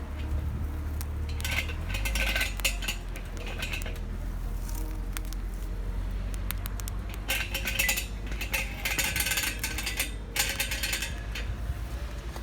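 Metal camp cookware and utensils clinking and clattering in several short bursts, over a steady low rumble.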